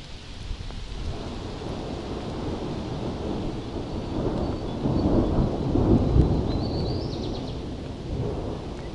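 Rolling thunder: a low rumble that builds over several seconds, peaks about two-thirds of the way through, then dies away.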